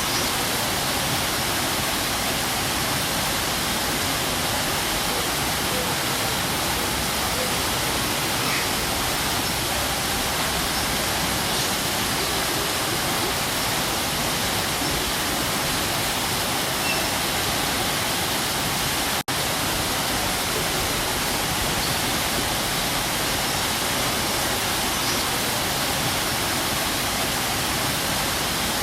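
Waterfall: water falling and splashing in a steady, dense rush like white noise, with a split-second break a little past two-thirds of the way through.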